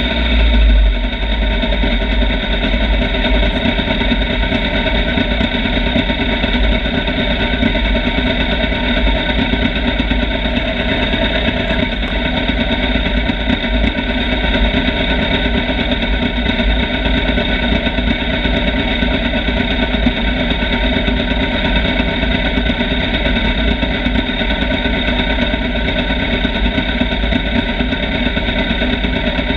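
Motorcycle engine running at a steady, unchanging pitch, with a deep rumble underneath.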